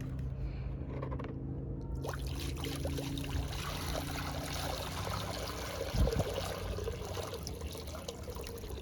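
Water running and pouring as a bird water dish is filled, starting up strongly about two seconds in and trickling steadily after that. There is one short knock about six seconds in.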